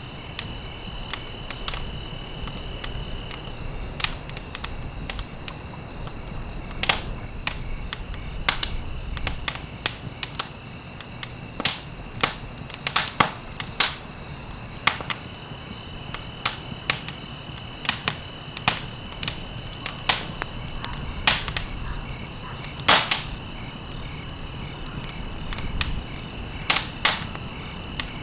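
Wood fire crackling, with irregular sharp pops scattered through a low rumble and a few louder snaps. A steady high-pitched trill runs underneath.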